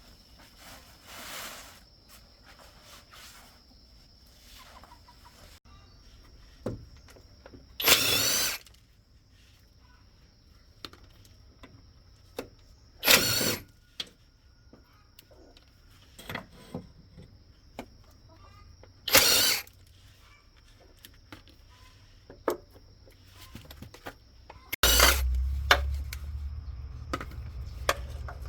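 Three loud, short bursts from a power tool, about five to six seconds apart, with quieter workshop clatter between them; about 25 seconds in a low steady motor hum starts. A rooster starts crowing at the very end.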